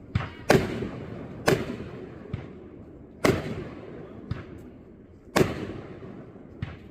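Backyard consumer fireworks going off: four loud bangs, one to two seconds apart, each echoing away, with smaller sharp pops in between.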